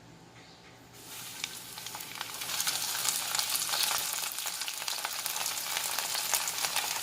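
Floured tilapia frying in hot oil in a frying pan, sizzling and crackling. The sizzle starts about a second in, as the fish goes into the oil, and grows louder over the next second or so before holding steady.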